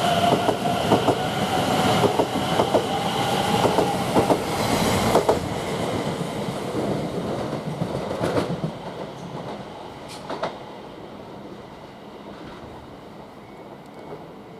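Greater Anglia Class 720 electric multiple unit running along the platform, wheels clicking over rail joints with a steady whine above the rumble. The sound fades away after about five seconds, leaving a low rumble and a couple of single clicks.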